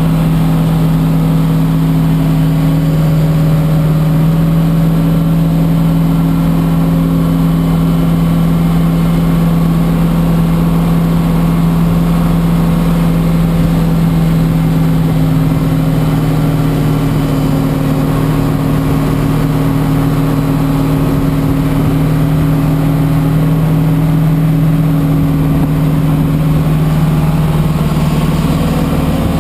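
Pushback tug's engine running steadily while pushing a Boeing 777, a constant low drone that holds the same pitch throughout.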